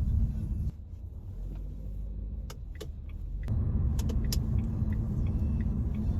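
Road and engine rumble inside the cabin of a moving SM3 sedan, with a few faint, irregular clicks. The rumble is quieter for a few seconds, then comes back louder.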